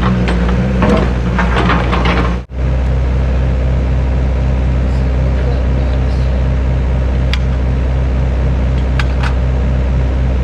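Excavator diesel engine running steadily, with a few light clanks early on. The sound breaks off for an instant about two and a half seconds in, then the engine runs on with a couple of faint ticks.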